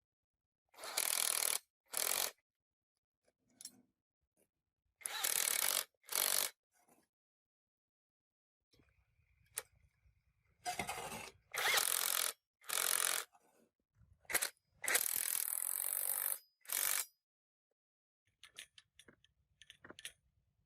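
A workshop tool worked in about ten short bursts of noise, each a second or less, with pauses and a few light clicks between.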